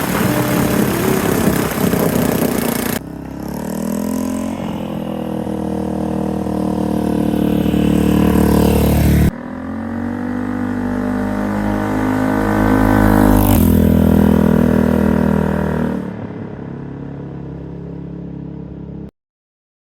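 Yamaha TW200's air-cooled single-cylinder engine pulling, its pitch rising slowly as the motorcycle accelerates. It comes in two stretches that each begin with an abrupt cut, then runs steadier and quieter, and stops suddenly near the end.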